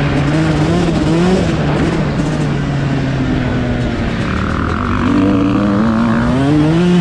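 2011 Yamaha YZ125 two-stroke dirt bike engine revving hard, its pitch rising and falling as the throttle is worked; it climbs about a second in, drops off for a few seconds, then climbs again near the end.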